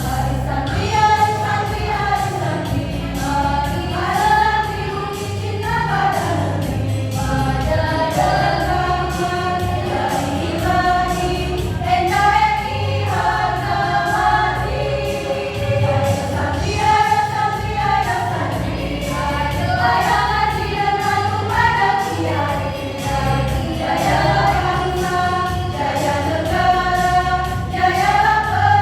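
A choir singing a march together over a steady low beat.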